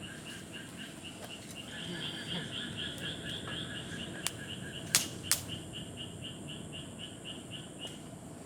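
Steady, rhythmic calling of a small animal, about five pulses a second, running all through. About halfway through come three sharp cracks, which are the loudest sounds.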